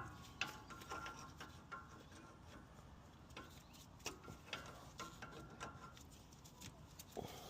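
Faint scattered metallic clicks and taps, a few with a short ring, from dyke pliers working at a cotter pin in a steering tie rod end's castle nut.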